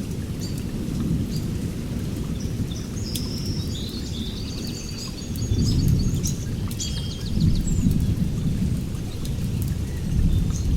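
Heavy rain falling steadily, with sharp drop ticks, under low rolling thunder that swells up a few times in the second half.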